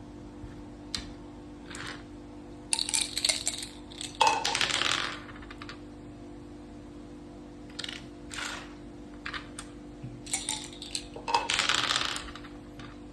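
Mak saka (Thai backgammon) dice and pieces clattering on the board: two bursts of rattling clatter, one about three seconds in and one near the end, with a few single clicks between them.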